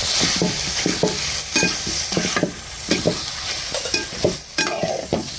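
Chicken frying with ground spices in a pan, sizzling while a ladle stirs it, the ladle scraping and knocking against the pan two or three times a second.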